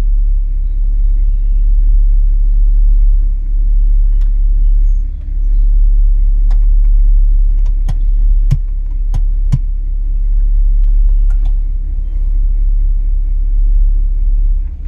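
1960 Cadillac's 390 V8 idling steadily, heard from inside the cabin as a deep, even rumble. Several sharp clicks stand out in the middle, as the dash radio's knobs are worked.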